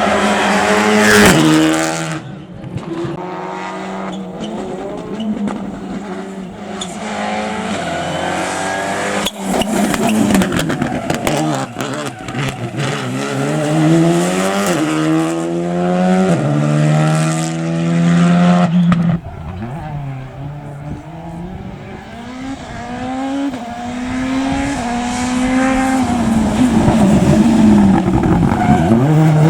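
Rally car engines at full throttle on a stage, revving hard and changing up through the gears: the pitch climbs and drops back with each shift, several times in a row. The sound changes abruptly a few times as different passes follow one another.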